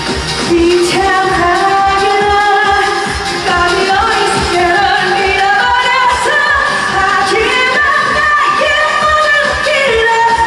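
A woman singing a Korean pop song live over an amplified backing track with a steady beat.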